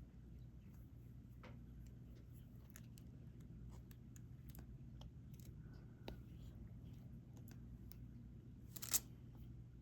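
Faint, irregular clicks and taps of resin diamond-painting drills being picked up with a drill pen and pressed onto the canvas, with one sharper click about nine seconds in.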